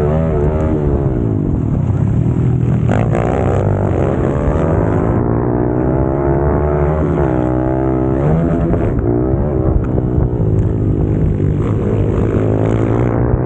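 Pit bike's single-cylinder four-stroke engine racing, heard from on board. The revs climb and drop again and again as the bike accelerates and slows through the track's sections.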